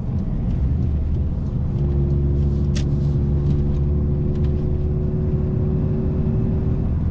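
Mazda MX-5 NC's 2.0-litre four-cylinder engine running through its modified, louder aftermarket exhaust while driving, a bit deep in tone. The engine note eases off in the first second or two, then holds steady with its pitch slowly creeping up, and there is a short click about three seconds in.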